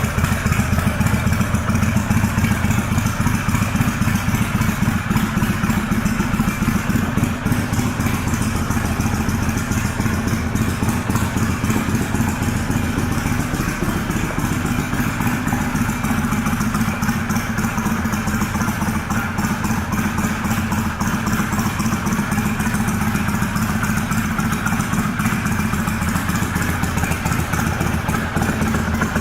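Kawasaki Vulcan 800 V-twin engine idling steadily through staggered chrome Cobra exhaust pipes.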